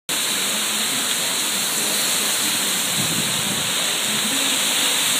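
Heavy tropical-storm downpour: rain falling in a steady, even hiss.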